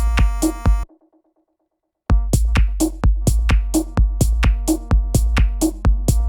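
Electronic techno loop from a drum machine, with sharp, evenly repeating hits over a deep sustained bass and steady synth tones. It cuts off just under a second in and starts again about two seconds in.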